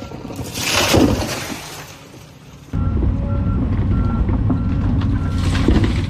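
Volvo EC220 excavator working: a loud rush of noise builds and fades in the first two seconds. Then, almost three seconds in, the diesel engine comes in loud and steady, with short repeated beeps over it.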